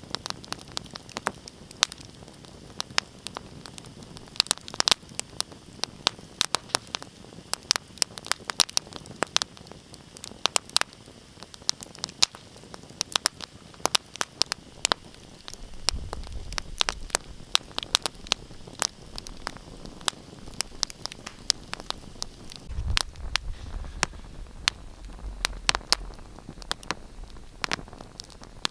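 Wood fire crackling, with many sharp irregular pops and snaps over a soft hiss. A low rumble swells up about halfway through and again for a few seconds near the end.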